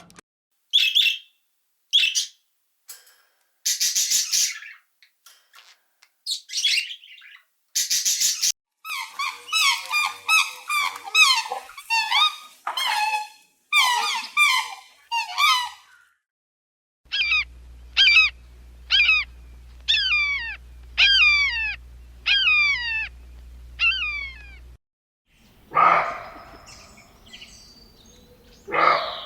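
Baby poultry peeping: short high chirps in several separate stretches with silent breaks between them, including a long run of quick falling peeps, about two a second, over a low hum. Near the end a different, broader sound comes in.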